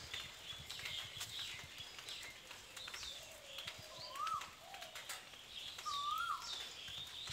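Birds calling: two short rising-then-falling whistled notes about two seconds apart in the second half, over fainter high chirps throughout, with light taps and rustles mixed in.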